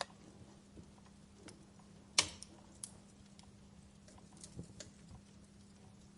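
Wood fire crackling in a fireplace: sparse small pops and ticks, with one sharp, loud crack about two seconds in.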